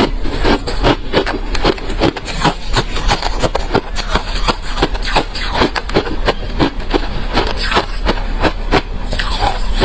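Refrozen crushed white ice being chewed close to the microphone: dense, continuous crunching and cracking, several sharp cracks a second.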